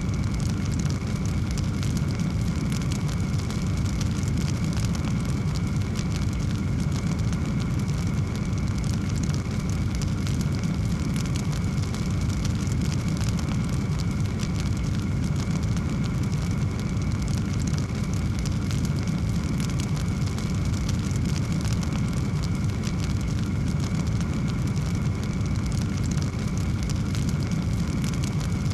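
Wood fire burning in a fireplace, a steady low rumble of flames with dense small crackles throughout.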